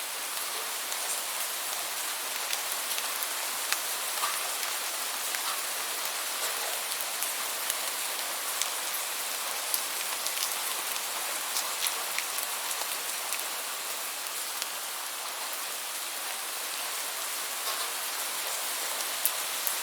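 Steady rainfall: an even hiss of rain with many separate drops ticking on a surface, scattered irregularly.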